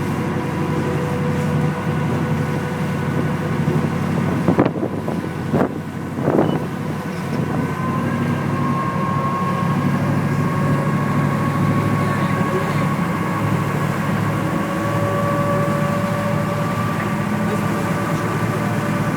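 Steady engine drone with a low hum, broken by a few short knocks about five to six and a half seconds in.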